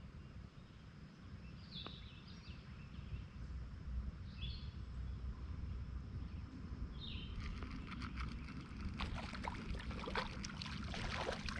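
A steady low rumble with a few short, high bird chirps. About two-thirds of the way in, a run of close clicking and rustling sets in.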